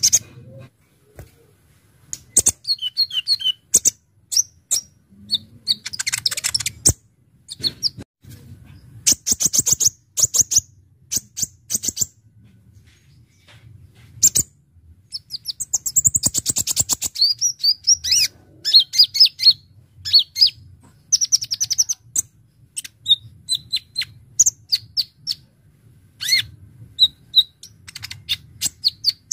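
Kolibri ninja (Konin) sunbird singing: fast, high chattering trills and sharp chips in repeated bursts of about a second, with short gaps between them.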